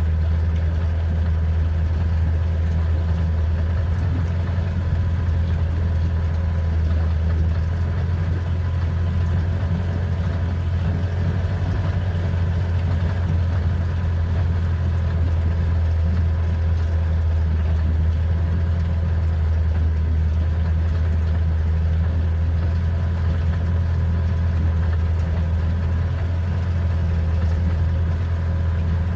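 Boat engine idling: a steady low hum with no change in speed.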